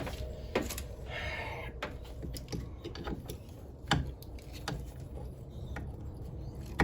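Scattered clicks and knocks from an AC manifold gauge set and its hoses being handled, the loudest about four seconds in, with a brief rustle near the start, over a low steady hum.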